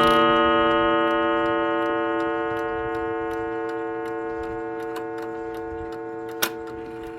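Baduf mantle clock's gong note ringing and slowly dying away, with several tones sounding together, while the movement ticks behind it. A sharper click comes about six and a half seconds in.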